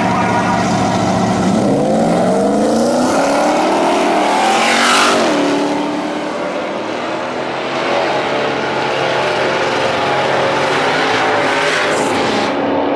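Drag-racing Ford truck engine at high revs. Its pitch holds steady, then climbs for about three seconds as it accelerates hard, falls sharply about five seconds in, and runs on loud and steady.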